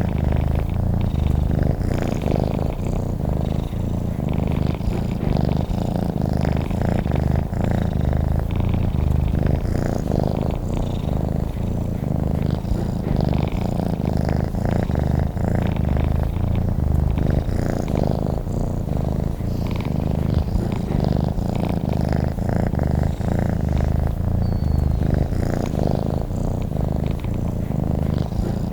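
Domestic cat purring steadily and close up: a low, continuous rapid rumble that pulses gently with each breath in and out.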